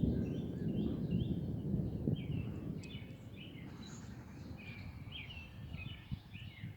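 Distant thunder rumbling low and fading away over a few seconds, with repeated short high chirps, about two a second, over it.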